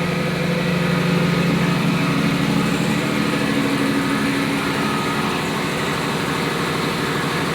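Steady, loud drone of running machinery in a tug's engine room: a strong low hum with several steady tones above it, unchanging throughout.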